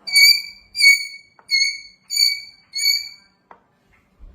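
Hill myna whistling: five clear, loud whistled notes in a row, each about half a second long and falling slightly at the end.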